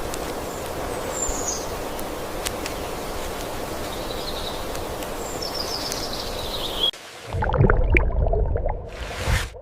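Steady rushing water with a few bird chirps over it. About seven seconds in it cuts abruptly to louder, irregular splashing and low rumbling water.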